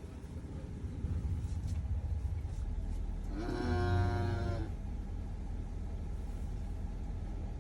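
A single mooing call from cattle, lasting just over a second, about halfway through. It sounds over a steady low engine-like rumble.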